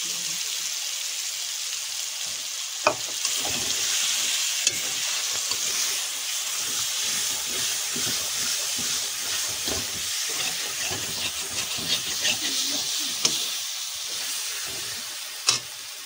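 Chopped olives and spice powder frying in mustard oil in a steel kadai, sizzling steadily while a metal spatula stirs and scrapes. Every few seconds the spatula makes a sharp clink against the pan.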